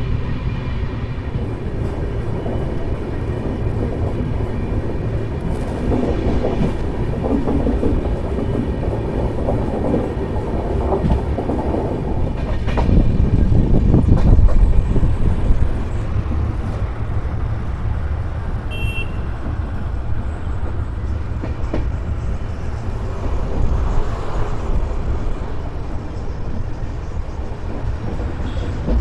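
Jan Shatabdi Express train running along the track, a steady low rumble that swells louder for a few seconds about halfway through.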